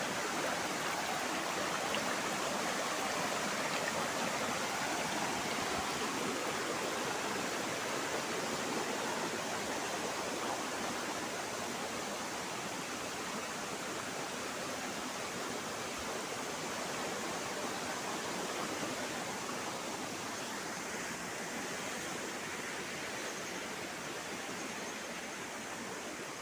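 Steady rush of waterfall and river water, slowly growing fainter.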